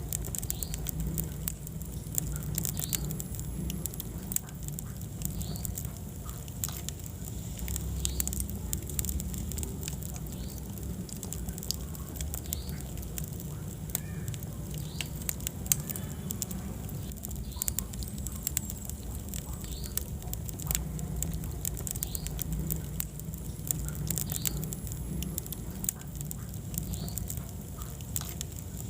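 Wood fire burning in a fireplace: a steady low rumble of flames with frequent small crackles and pops, and one sharper pop a little past the middle. Faint short high squeaks come about every second and a half.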